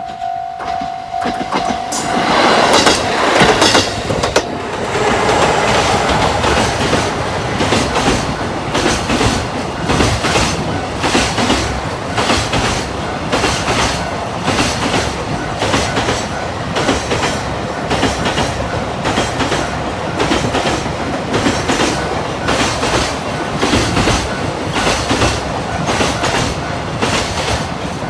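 Railroad crossing alarm ringing in a steady pulsing tone, overwhelmed about two seconds in as a train reaches the crossing. The train's wheels then clatter over the rail joints in a long, regular clickety-clack as the cars pass.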